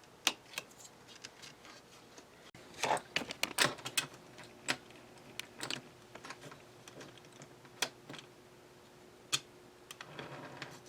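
Scattered light clicks and clacks of small parts being handled, with a quick cluster about three seconds in and single taps spread through the rest.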